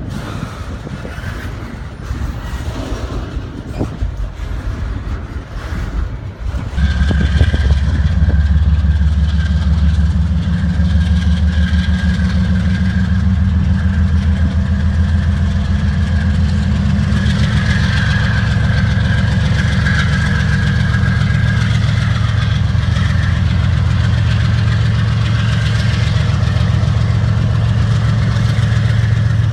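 Norfolk Southern freight diesel locomotive engine running steady and loud, with a deep drone and a thin whine above it. It cuts in sharply about seven seconds in, after a stretch of fainter, uneven rumble.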